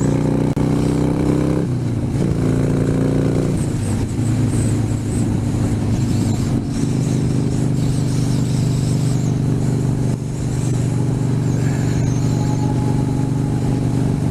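Harley-Davidson Sportster 72's V-twin engine running at highway speed, heard on the rider's microphone with wind noise over it. The engine note changes about two seconds in and again about four seconds in, then holds steady.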